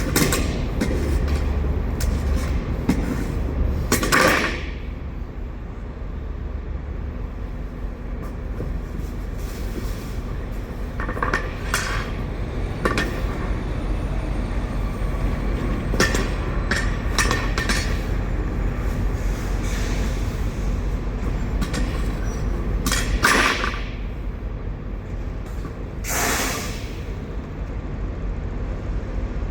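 Steady low engine rumble with scattered knocks, clunks and scrapes from potatoes being cleared out of an empty truck trailer, and a few louder scraping bursts.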